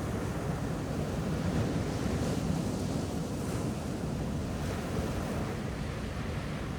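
Ocean waves washing onto a beach in a steady surf, swelling slightly a couple of seconds in, with wind rumbling on the microphone.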